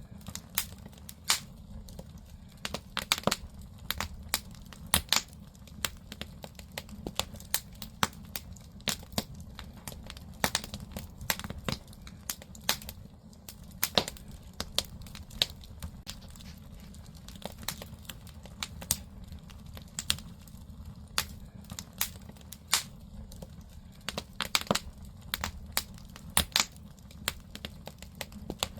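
Firewood burning in a traditional Korean agungi firebox, crackling with many irregular sharp pops over a steady low rumble.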